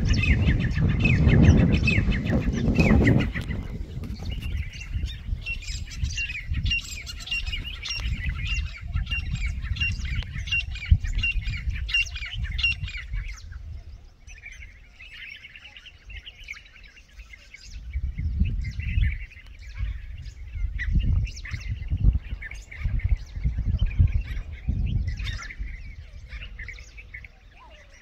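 Birds chirping and calling in quick, repeated short notes, with intermittent low rumbling in the background.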